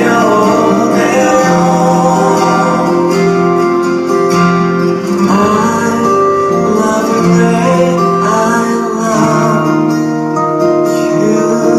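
Live pop ballad: a male singer sings the closing line, then the band's guitar-led backing carries the song out.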